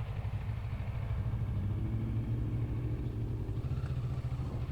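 Motorcycle engine running steadily at low revs, a pulsing low rumble.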